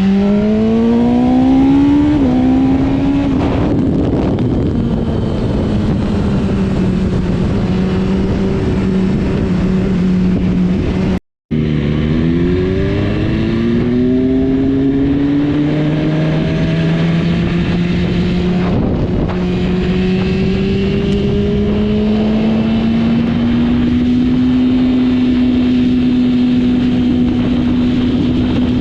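Motorcycle engine running hard under acceleration. Its pitch climbs, drops once at a gear change early on, then holds steady at speed. The sound cuts out completely for a moment about eleven seconds in, then the engine climbs again and settles to a steady, sustained note.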